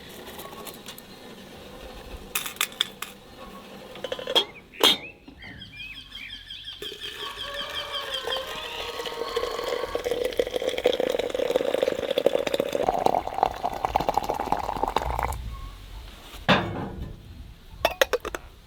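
Dishes and utensils clinking in sharp knocks, with a longer steady sound in the middle that slowly rises in pitch.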